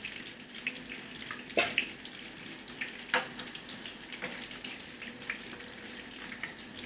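Ground-fish patties sizzling in hot oil in a frying pan, a steady hiss full of small crackles and pops. Two sharp clicks stand out, about one and a half seconds and three seconds in.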